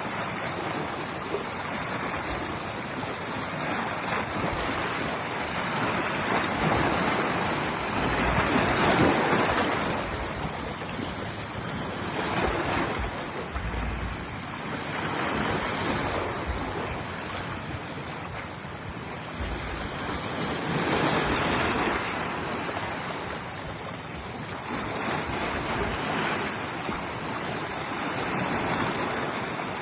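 Ocean waves breaking and washing in, a steady rushing that swells with each wave every few seconds, with some wind on the microphone.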